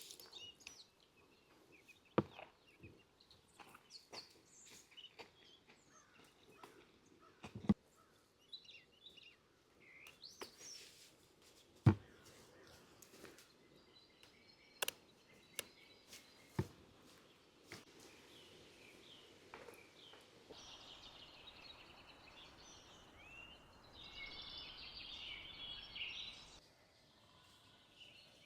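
Birds chirping faintly, with a denser burst of calls near the end, and a few sharp clicks or knocks scattered throughout.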